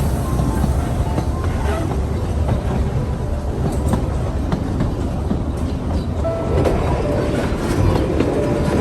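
Puffing Billy narrow-gauge steam train running along the track: a steady low rumble with scattered clicks of the wheels over the rails.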